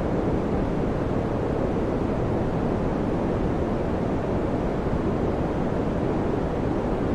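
Electric fan running steadily: an even, low rushing of air with no change in level or pitch.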